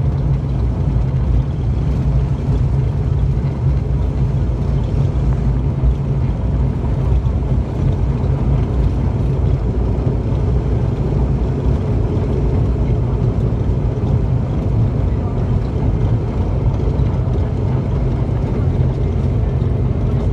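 Steady low drone of an ATR 72's twin turboprop engines and propellers, heard inside the passenger cabin.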